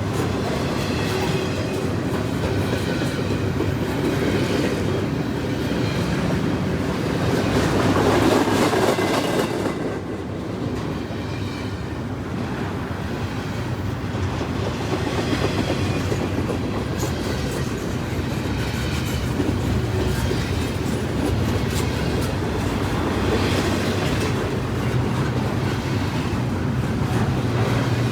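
Freight train cars rolling past with a steady rumble and rhythmic clicking of wheels over rail joints, swelling briefly about eight seconds in.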